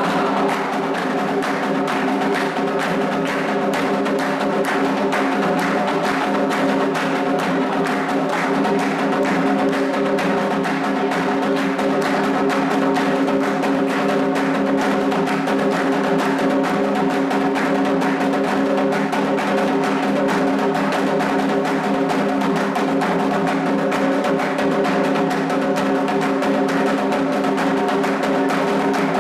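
Candomblé atabaque drumming playing a fast, steady rhythm for the orixá Ewá, with a constant pitched tone held underneath.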